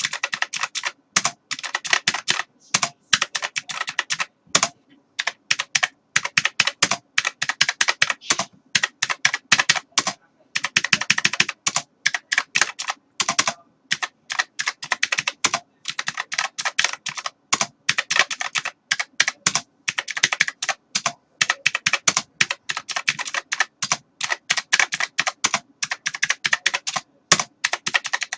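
Typing on a computer keyboard: fast runs of key clicks, broken every few seconds by short pauses.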